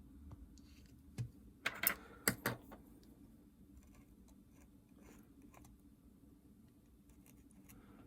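Small clicks and taps of hands handling an opened Nintendo DS Lite and its parts, a few sharper clicks about one to two and a half seconds in, then faint scattered ticks over a low steady hum.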